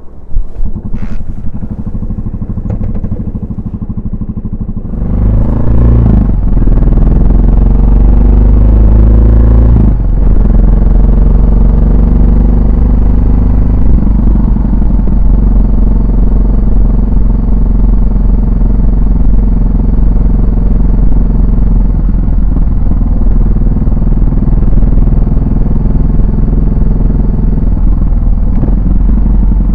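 Yamaha SR400's single-cylinder four-stroke engine and exhaust while riding: quieter at first, then the engine revs up and pulls harder about five seconds in. Its pitch rises, with brief dips near six and ten seconds like gear changes, before it settles into steady running.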